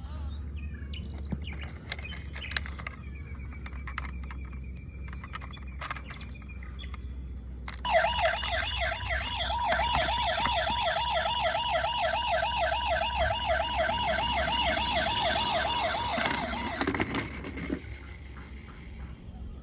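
Toy police-car siren sounding a rapid warbling wail, starting about eight seconds in and cutting off a couple of seconds before the end. Before it there is a low hum with scattered clicks.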